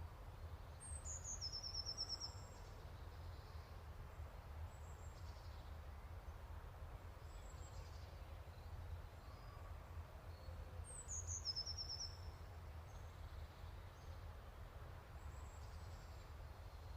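Faint songbird singing twice, about ten seconds apart, each phrase a high note sliding down into a quick trill, with a few faint short chirps between, over a low steady hum.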